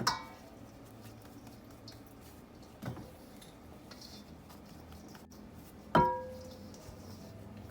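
Kitchen dishware knocking three times, about three seconds apart, each knock ringing briefly; the last is the loudest.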